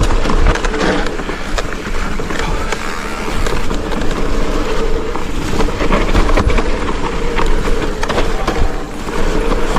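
Mountain bike riding fast down a muddy, greasy trail: steady rolling tyre noise with the chain and frame rattling and clicking over bumps.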